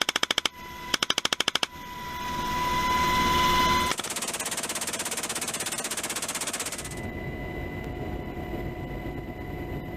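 Helicopter-mounted machine gun firing in a live-fire drill: two short bursts of rapid fire, then a rising rush and a longer, faster burst of about three seconds. A steady rushing noise follows.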